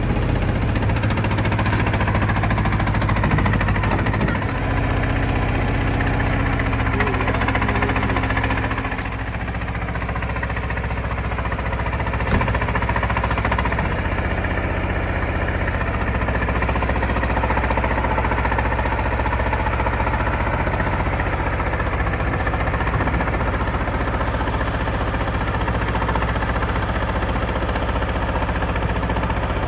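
Detroit Diesel 6V92TA two-stroke V6 diesel engine of an FTF logging truck running at a steady speed, with a slight dip in level about nine seconds in.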